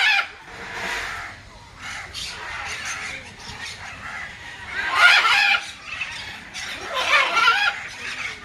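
Birds squawking and calling, harsh and loud, with the two loudest calls about five and seven seconds in.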